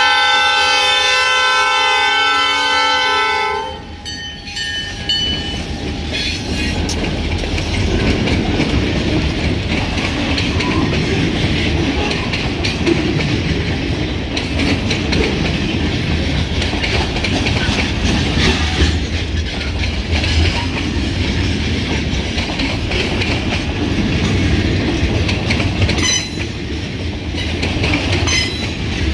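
A diesel freight locomotive's air horn sounds one long chord, which cuts off about four seconds in. A long freight train of pulpwood log cars follows, passing with a steady rumble and the clickety-clack of wheels over the rail joints.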